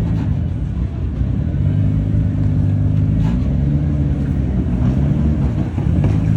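Car engine running steadily, its note wavering and dipping briefly just before the end before settling again.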